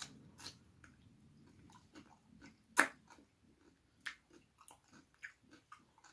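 Close-up eating sounds: a person chewing food, with scattered short mouth clicks and one louder click about three seconds in.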